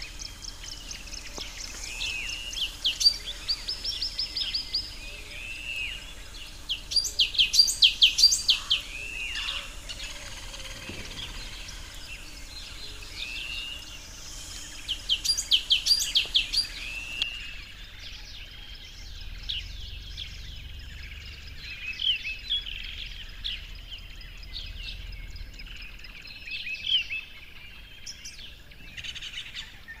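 Several songbirds calling and singing: repeated short rising-and-falling chirps, broken by three bursts of quick, loud, high notes about three, eight and sixteen seconds in. About seventeen seconds in, the background hiss drops away suddenly, as at a cut to another recording.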